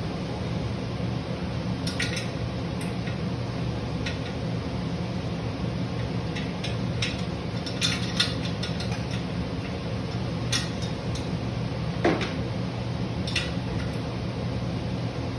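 Metal hand tools clinking and tapping against metal motorcycle engine parts, a dozen or so scattered clinks, over a steady background hum.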